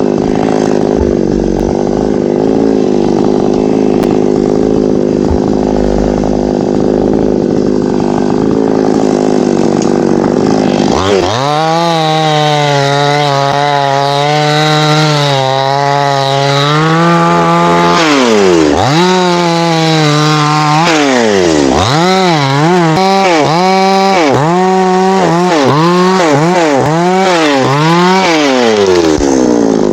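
A chainsaw runs steadily for about ten seconds and is then revved high. Its pitch repeatedly sags and climbs back, most often near the end, as it cuts through the limbs of a teak tree's crown.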